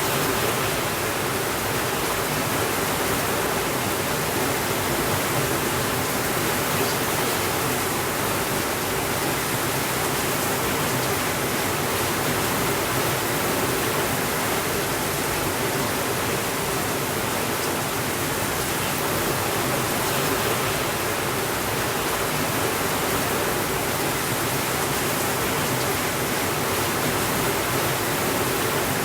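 Steady rainfall, an even, dense hiss with no breaks or changes in level.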